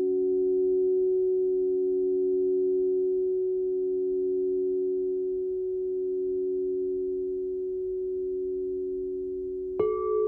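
Crystal singing bowls ringing: two low pure tones hold steady and fade slowly. Just before the end another bowl is struck, adding a higher tone.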